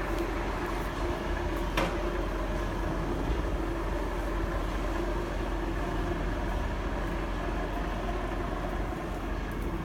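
Beiben 4x4 truck's diesel engine running steadily, with a short click about two seconds in.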